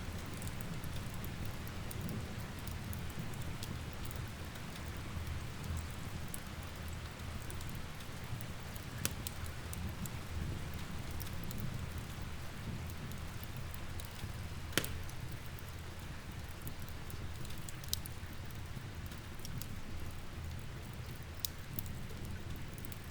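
Steady rain with a low, even rumble beneath it, and the sharp pops and crackles of a wood fire scattered throughout, the loudest pop about two-thirds of the way in.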